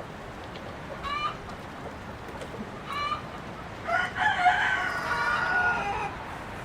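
Chickens clucking with short calls, then a rooster crowing for about two seconds, starting about four seconds in.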